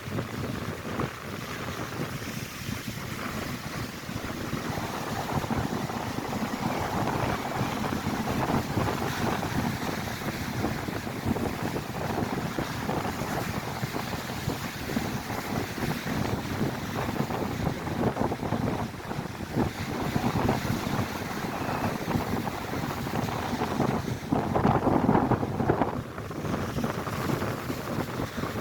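Strong wind buffeting the microphone over lake waves crashing and surging against the shore, with a louder surge near the end.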